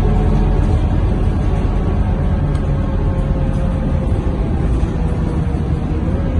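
Scania K230UB bus's diesel engine running under way, heard from inside the cabin: a steady low drone with road noise, its tone shifting slightly as it drives.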